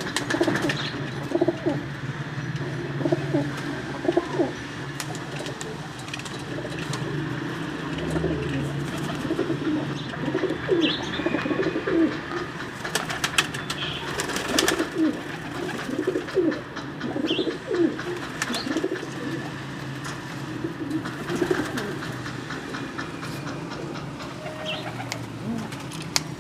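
Domestic pigeons cooing, one low call after another, with a few short high chirps. A quick run of sharp clicks or taps comes about halfway through.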